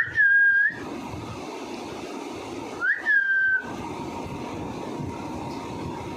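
Two clear whistles about three seconds apart, each a quick upward swoop that levels off into a held note of about half a second, over a steady hiss.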